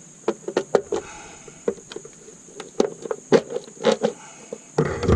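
Irregular knocks, taps and clicks of hand tools and parts against the engine while a stuck valve cover is worked loose, with a louder low thump near the end.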